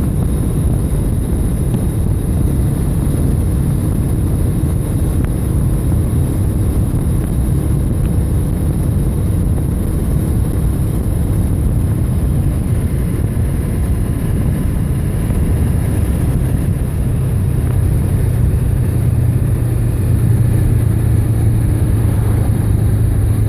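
Motorcycle riding at road speed: a steady engine drone under heavy wind rush on the microphone. The engine note grows louder near the end.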